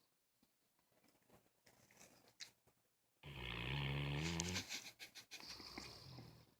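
A sleeping bloodhound snoring. After a few quiet seconds of faint breathing, one loud pitched snore comes about halfway through and lasts about a second and a half. It trails off into softer breathing.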